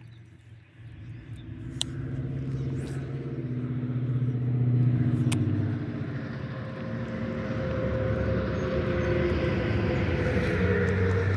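A motor vehicle engine running, growing louder over several seconds and staying close, with a couple of sharp clicks early on top of it.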